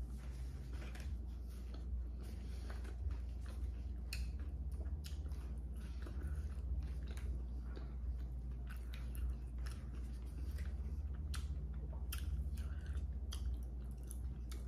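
Close-miked chewing and wet mouth sounds of someone eating a seafood boil, with irregular soft clicks and smacks over a steady low hum.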